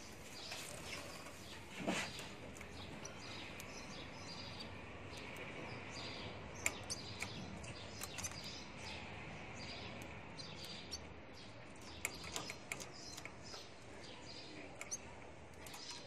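Several small cage birds chirping and twittering over one another in quick, short calls, with a few sharper chirps standing out and a brief louder sound about two seconds in.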